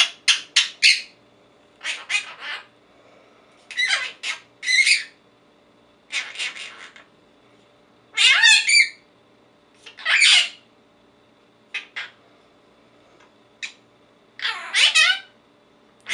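Young Quaker parrot (monk parakeet) calling: a quick run of sharp chirps at the start, then bursts of high squawks and chattering calls every second or two, some sliding down in pitch.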